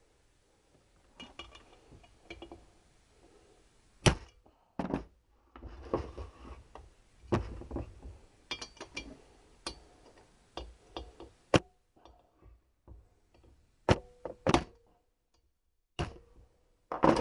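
Sharp metal knocks and clatter of hand tools on a Triumph T120R cylinder head during valve removal: a socket tapped on the valve spring caps to free the collets, with the valve spring compressor being handled. About eight sharp knocks come at uneven intervals, with lighter rattling between them.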